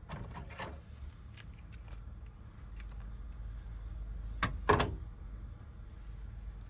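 Small metal clicks and taps from handling a disassembled Honda door lock cylinder and its wafers, two sharp clicks close together about four and a half seconds in being the loudest.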